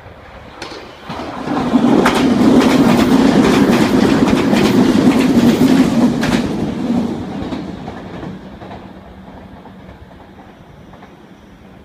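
Red Meitetsu electric train passing through the station at speed without stopping, its wheels clacking rapidly over the rail joints. The sound builds about a second and a half in, stays loud for about five seconds, then fades as the train moves away.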